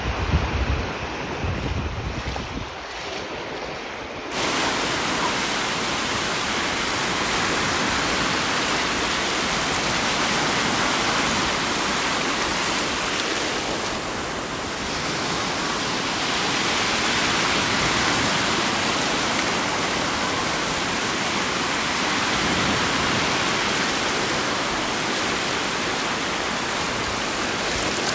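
Storm waves breaking on a beach, a steady dense rush of surf. About four seconds in, it turns abruptly louder and brighter.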